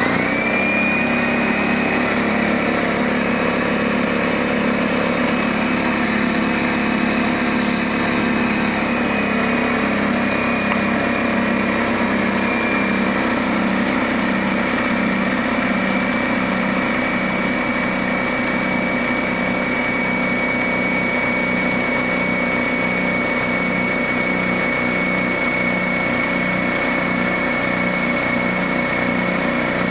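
DeWalt D55146 electric air compressor kicking on and running steadily, its pump building pressure in the tank: a constant drone with a fast low pulsing and a high steady whine.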